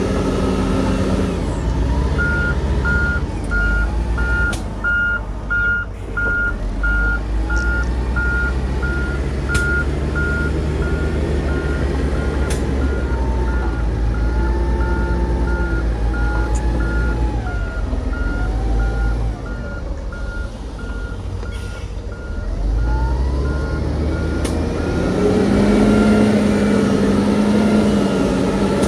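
A heavy machine's reversing alarm beeps steadily at one pitch over the low rumble of diesel engines, with a few sharp clanks. The alarm stops shortly before the end, as an engine revs up and gets louder.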